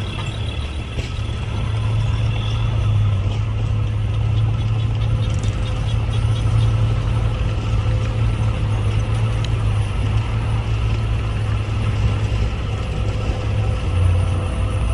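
Diesel engine of heavy earthmoving equipment running steadily at a low, even speed.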